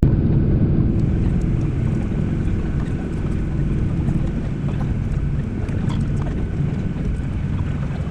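Steady low rumble of a Boeing 737-800's CFM56 engines running at idle, heard inside the passenger cabin, with faint scattered ticks.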